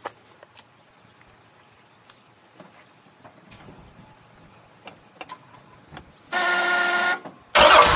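Faint scattered clicks, then a steady whine for about a second, then the 1968 Oldsmobile 442 W-30's 400 cubic inch V8 fires up loudly just before the end.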